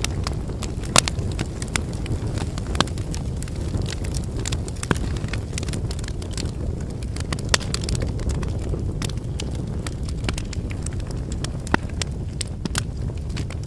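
Wood fire burning: a steady low rumble of flames with frequent irregular crackles from the firewood and a few louder sharp pops.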